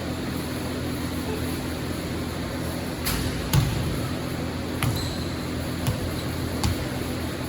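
Basketball bouncing on a gym floor: about five irregular knocks in the second half over a steady hum of the hall.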